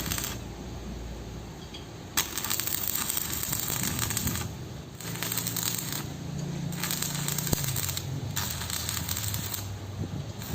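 Small metallic clicks and clinks, like hand tools being handled on metal, over a hiss that comes and goes.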